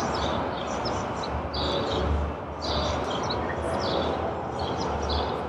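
Small birds chirping in short, repeated bursts about once a second, over a steady low rumble and hiss of background noise.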